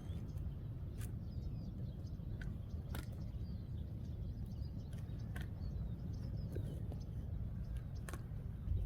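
Outdoor ambience: a steady low rumble with a few sharp clicks or snaps spaced a couple of seconds apart, and faint bird chirps.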